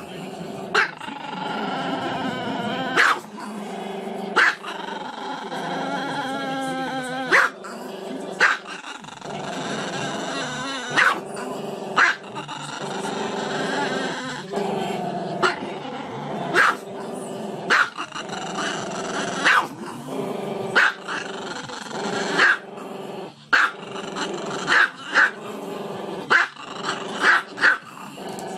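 Small dog howling in long, wavering notes, broken by short sharp barks; the barks come quicker and closer together near the end.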